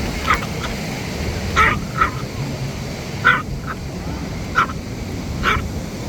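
A dog barking in short, sharp barks, about seven spread unevenly over six seconds, above steady low background noise.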